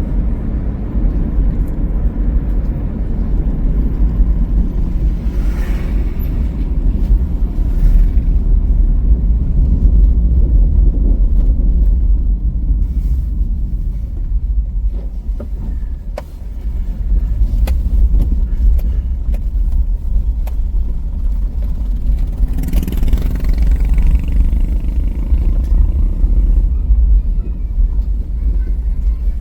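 Steady low road rumble of a car driving along a highway, with two brief swishes of passing traffic about six seconds in and again about twenty-three seconds in.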